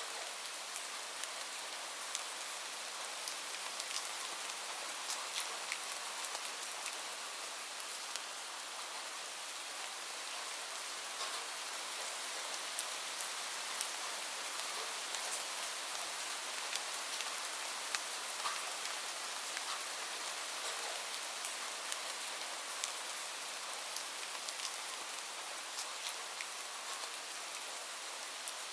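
Steady rain falling on a surface, an even hiss with scattered, sharper drop ticks throughout.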